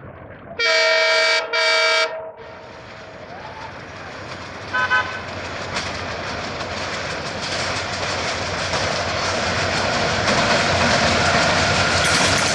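Diesel locomotive horn blown twice, two loud blasts about half a second in, warning for the level crossing, then a short higher horn toot about five seconds in. After that the approaching train's engine and wheels on the rails grow steadily louder.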